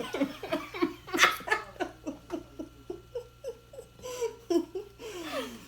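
A woman laughing hard: a long run of short, falling 'ha' bursts, about four or five a second.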